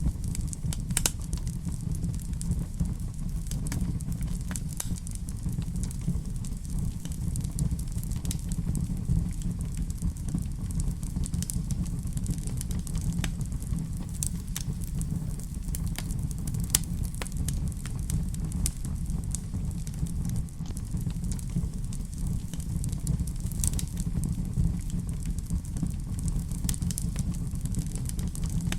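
Wood fire burning in a fireplace: irregular crackles and small pops over a steady low rumble.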